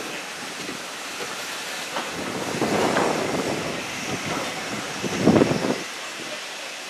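Passenger coaches of a heritage train rolling slowly past, with a steady hiss of wheels on the rails and two louder clatters, about three seconds and five seconds in, the second the loudest.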